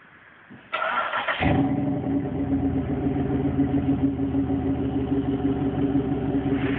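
Pontiac Grand Prix GXP's 5.3-litre LS4 V8 starting with its exhaust resonator removed: a brief crank of under a second, then the engine catches about a second and a half in and settles into a steady idle.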